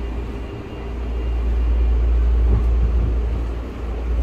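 Cabin interior sound of a Tokyu 5000-series commuter train running: a steady deep rumble of wheels on rail and running gear, growing louder about a second in and dipping briefly near the end.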